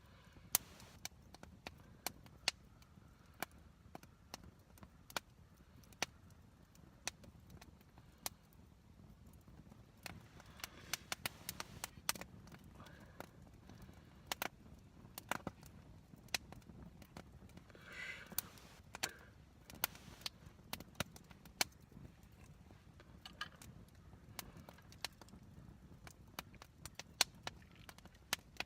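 Wood campfire crackling, with sharp irregular pops and snaps over a low steady rumble of flame. There is a short spell of softer noise about 18 seconds in.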